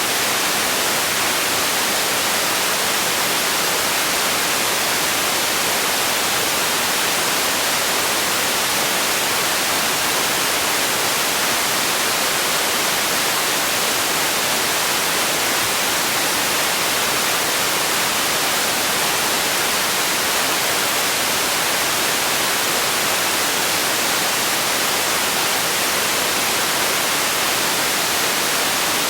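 Steady generated sleep noise: an even hiss, strongest in the treble and weaker in the bass, with no change at all.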